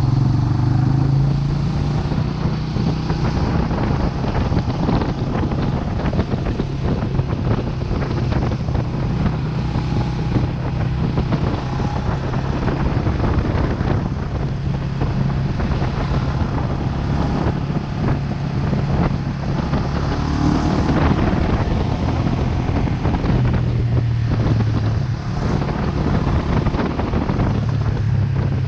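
Vento Lucky 7 motorcycle engine running steadily while riding, with heavy wind rush on the helmet or bike camera's microphone. The engine note swells a little now and then.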